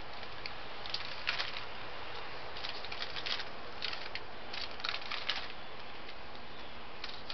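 In-shell peanuts rustling and clicking as they are handled and sorted by hand, in short clusters of dry clicks over a steady hiss.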